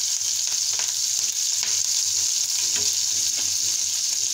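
Chopped green chillies, cumin and mustard seeds frying in hot mustard oil in a kadhai: a steady high sizzle, stirred with a silicone spatula, with faint scattered ticks.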